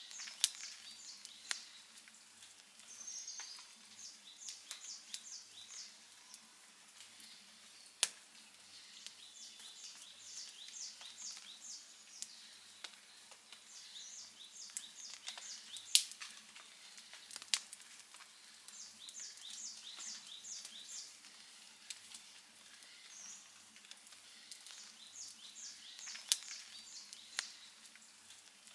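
Campfire crackling and popping, with scattered sharp snaps and a few louder pops about half a second, eight seconds and sixteen seconds in. Short series of high chirps repeat every few seconds alongside it.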